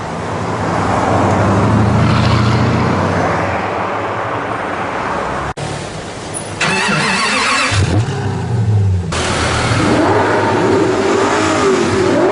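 Supercar engines revving and accelerating, in several short clips cut together with sudden breaks, including a spell of loud hiss partway through.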